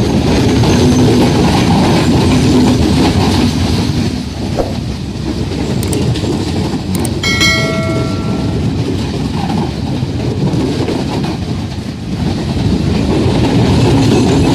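Passenger train coaches rolling past close by, wheels rumbling and clattering over the rail joints. About halfway through, a train horn sounds one short, steady note of about a second.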